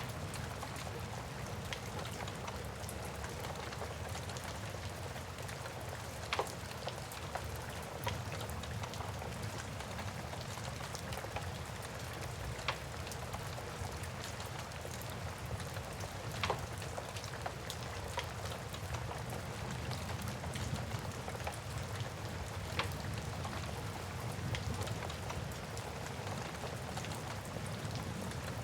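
Steady rain hiss mixed with a wood fire crackling, with a few sharp pops from the burning logs spaced several seconds apart.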